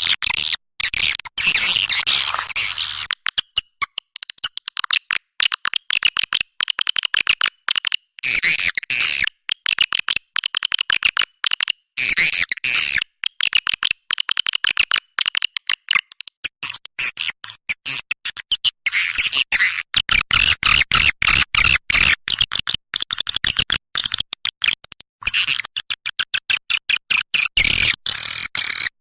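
Recorded swiftlet calls of the kind played to lure the birds: rapid, continuous chattering chirps and clicks, high-pitched and tightly chopped, with only brief gaps.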